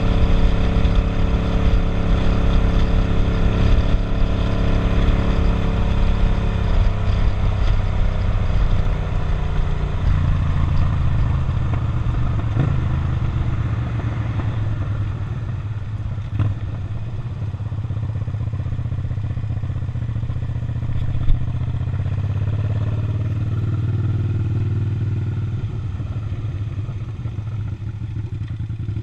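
Suzuki SV650's 90-degree V-twin engine running on the move, holding a steady note, then falling in pitch about seven seconds in and settling to a lower note from about ten seconds. A single sharp click about twenty-one seconds in.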